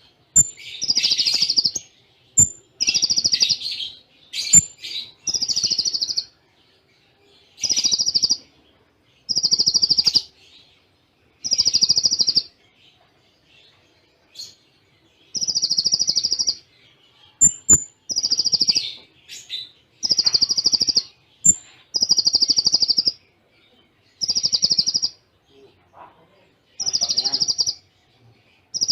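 Kolibri ninja (konin) sunbird singing in a bird-song training recording. It gives short, rapid, high trills, each about a second long, one after another with short gaps, with brief high chips between some of them: the 'cililin' shot-style song.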